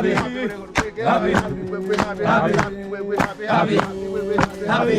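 Men singing a Swahili chant in rhythm with sharp thuds about twice a second, a wooden pestle pounding coffee beans in a mortar.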